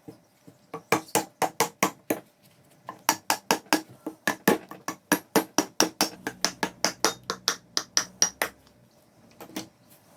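A hammer striking repeatedly in quick, even blows, about four or five a second, in two runs with a short pause between, then two last blows near the end.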